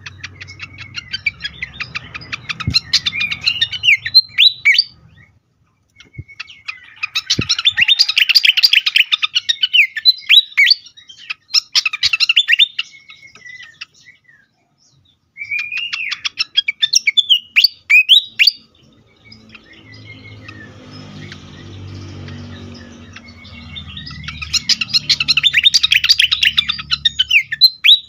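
Fantail (sikatan kipas) calling agitatedly: bouts of fast chattering notes mixed with short whistled glides, each lasting several seconds, with brief pauses between them. Around two-thirds of the way through, a low rumble fills one of the pauses.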